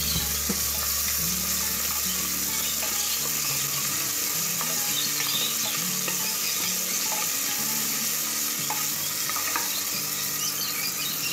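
Sliced onions and ginger-garlic paste sizzling steadily in hot oil in a pressure cooker pot, stirred with a wooden spatula.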